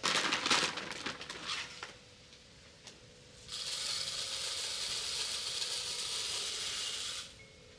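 Birdseed being handled and poured into a bird feeder: a quick patter of rattling seed at first, then a steady hiss of seed streaming in for about four seconds before it stops.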